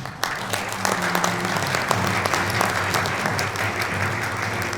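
Audience applauding, breaking out suddenly and continuing steadily, with soft music underneath.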